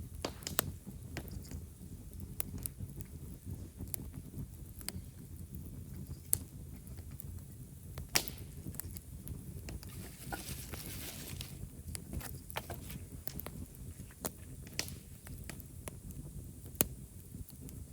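Wood campfire burning, its dry firewood crackling with scattered sharp pops and snaps; a brief hiss about ten seconds in.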